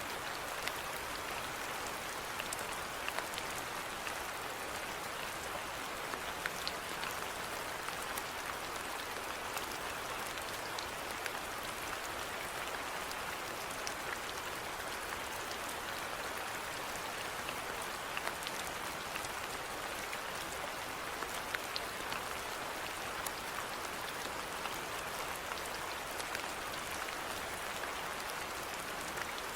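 Steady rainfall: an even hiss of rain with many small scattered drip ticks throughout.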